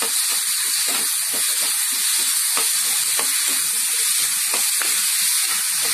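Ginger-garlic paste frying in hot oil with onions and tomatoes in a kadai: a steady sizzle with scattered small crackles.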